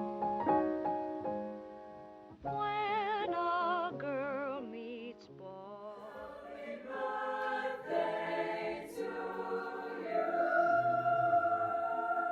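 Music: a few plucked or struck notes, then a solo singing voice with heavy vibrato in short phrases, swelling into sustained choir-like chords with a long held note near the end.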